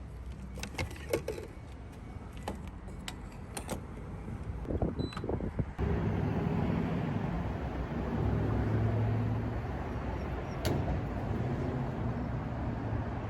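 A few scattered clicks and knocks, then from about six seconds in the steady running noise of a car on the move.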